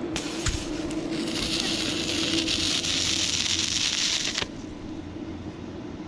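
Stick welding arc from a 6011 electrode on rusty, painted thin metal. It crackles and hisses for about three seconds, then breaks off suddenly. A few sharp ticks come just before the arc starts, over a steady low hum.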